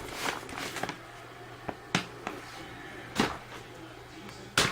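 Firework cake boxes being handled and set down: a few light knocks and rustles, the loudest near the end.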